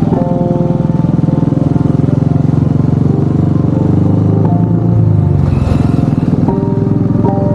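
Royal Enfield Bullet motorcycle's single-cylinder engine running steadily under way, with a brief rush of noise about five and a half seconds in.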